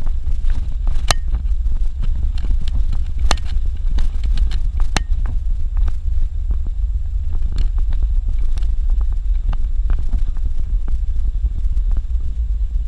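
Suzuki Jimny driving along a dirt road: a steady low rumble from the cabin, with scattered sharp clicks and knocks from the rough surface.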